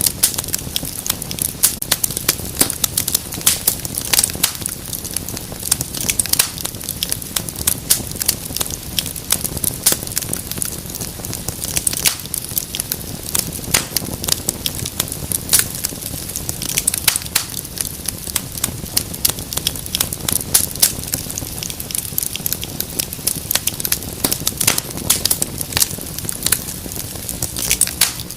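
Wood fire crackling in a fireplace: a dense, irregular run of sharp pops and snaps over a low, steady rumble of flames.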